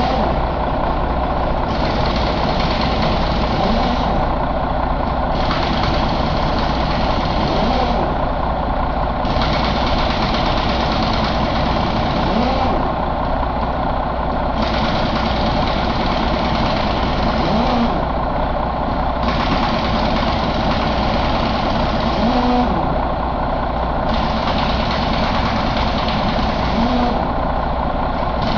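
Detroit DD13 inline-six diesel engine idling steadily.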